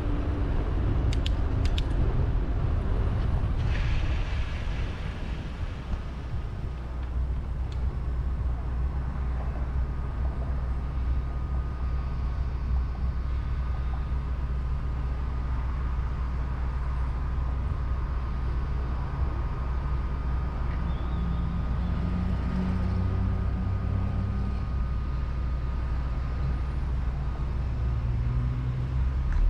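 Steady low rumble of wind and road noise on a bicycle-mounted camera, with motor traffic passing. A vehicle's engine hum comes through near the end.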